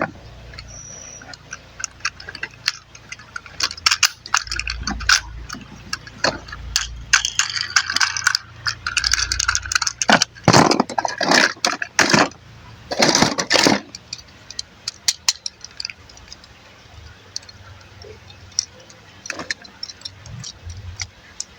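Plastic transforming robot toy being handled, with parts clicking and clattering in irregular bursts as they are moved.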